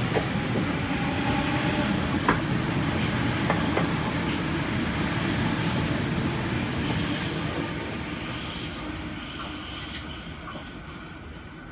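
Sydney Trains Waratah double-deck electric train departing and running past, a steady rumble of wheels on rails that fades over the last few seconds as it draws away. A thin high wheel squeal comes and goes from about three seconds in.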